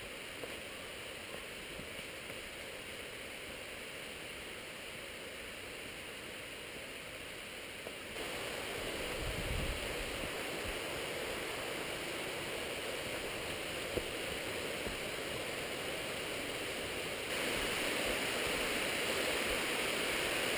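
Waterfall's water rushing steadily, growing louder in two sudden steps, about eight seconds in and again near the end.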